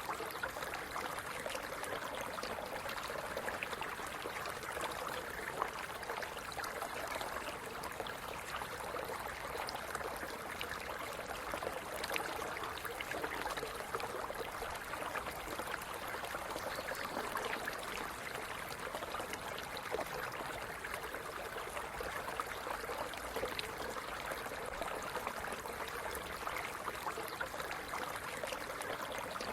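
Small stream running over stones, a steady babble of water with fine splashing and gurgling.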